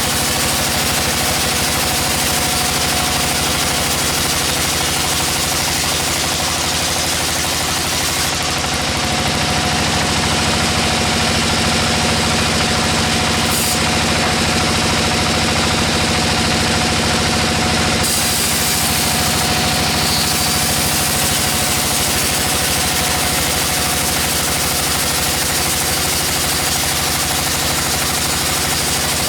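Sawmill machine's engine running steadily. Between about 8 and 18 seconds the sound changes, losing its highest hiss and shifting in its lower tones, then goes back.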